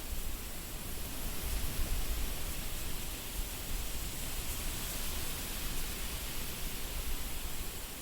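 Wind blowing: a steady rushing hiss with a low, uneven rumble of wind buffeting the microphone, strongest about two seconds in.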